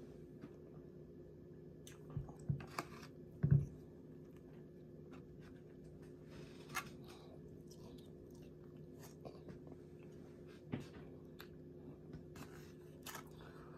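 A man chewing food, with scattered soft clicks and knocks, the loudest a few seconds in, as a plastic fork works in a foam takeout container. A low steady hum runs underneath.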